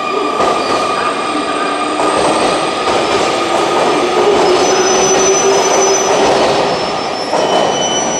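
JR Kyushu 885 series limited express electric train running slowly into a station platform, braking to a stop. High, steady squeals from its wheels and brakes ride over the running noise.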